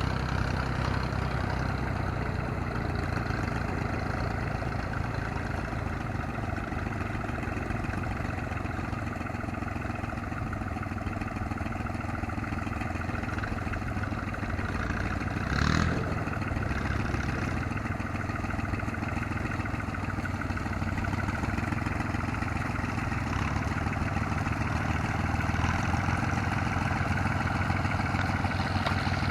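Yanmar YM3000 tractor's diesel engine running steadily while levelling field soil. About halfway through there is one brief, louder knock or clatter.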